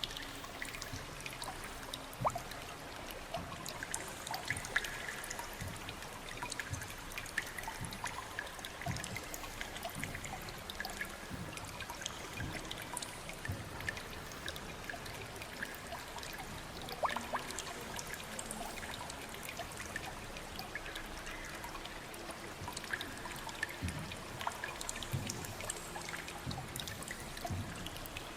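Water trickling and splashing: a steady wash with many scattered small drips and plinks.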